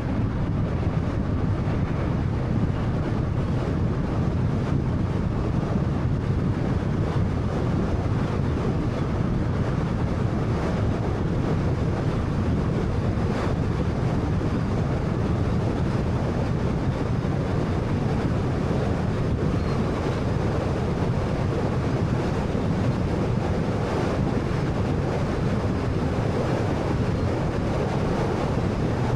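Car driving at a steady pace: continuous road and tyre noise with a low engine hum.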